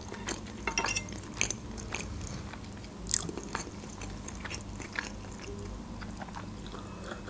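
Close-miked chewing: soft, wet mouth clicks and smacks of a person eating, with one sharper click about three seconds in.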